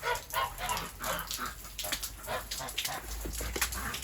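Ducks quacking over and over, many short calls in quick succession, as if complaining.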